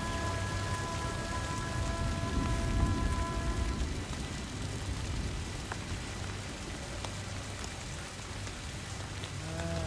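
Steady rain falling, with a low rumble beneath it. A held chord of steady tones sounds over it and stops about four seconds in.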